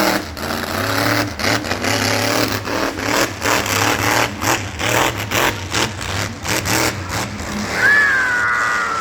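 Monster truck engine revving hard in repeated bursts, its pitch rising and falling. A high, slowly falling tone joins it near the end.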